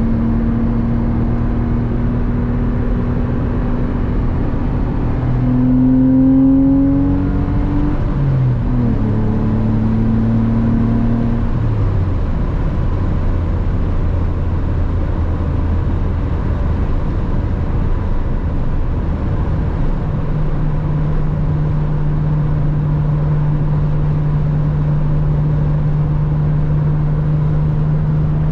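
Porsche Boxster 986's flat-six engine running under way. Its pitch rises and it gets louder about six seconds in, then drops in two steps over the next few seconds and runs low and steady. From about twenty seconds in it holds a higher steady pitch.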